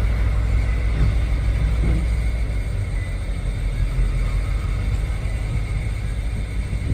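Diesel switching locomotive running with a steady low rumble, weakening somewhat partway through, under a constant high-pitched hum.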